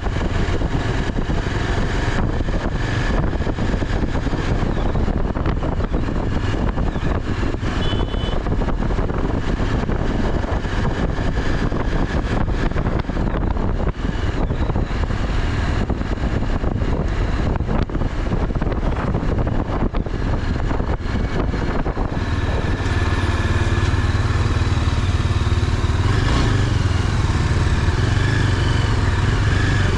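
Motorcycle running steadily while riding, with wind buffeting the microphone; the engine note steadies about two-thirds of the way through.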